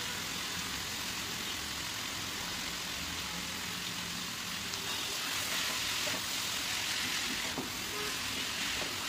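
Shredded mushrooms frying in a hot steel wok: a steady sizzle that grows a little louder from about five seconds in, with a spatula stirring them near the end.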